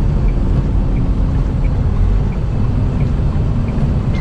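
Semi truck cab noise while driving at highway speed in rain: a steady low rumble of engine and road, with a faint, even ticking about two to three times a second.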